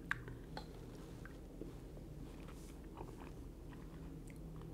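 A man chewing a mouthful of rice with sambal sauce: faint, soft, irregular clicks and smacks of the mouth, with one sharper tick right at the start.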